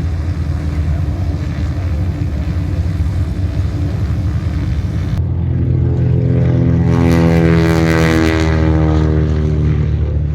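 Propeller aircraft engine running steadily. About five seconds in the sound changes abruptly, then the plane flies past, growing loudest around the middle of the pass with its engine pitch dropping slightly as it goes by.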